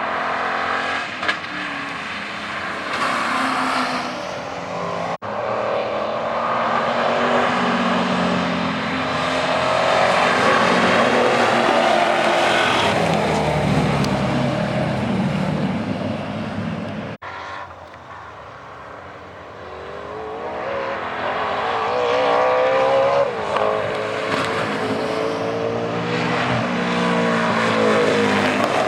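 Mercedes W126 500SEC race car's V8 engine running hard on track, its pitch rising and falling repeatedly as it is revved up and eased off through gears and corners. The sound cuts off abruptly twice, and it drops to a quieter stretch partway through before building again.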